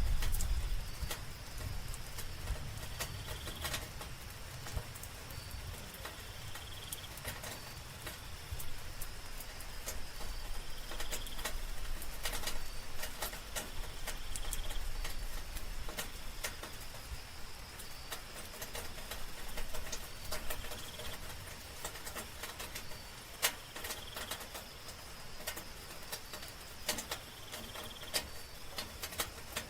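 Light rain at night: scattered drops tapping irregularly over a steady high trill of night insects. A short higher call recurs about every four seconds.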